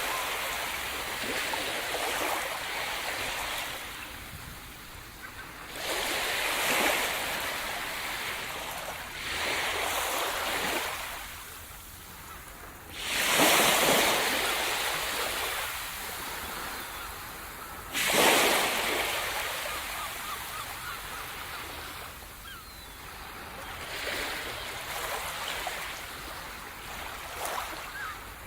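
Sea surf: waves break on the shore every few seconds, each crash followed by the hiss of water washing up and draining back. The biggest breaks come about 6, 13 and 18 seconds in, with smaller ones near the end.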